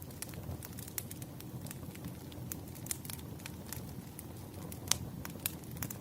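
Campfire burning: a steady low rumble with irregular sharp crackles and pops throughout, the loudest pop about five seconds in.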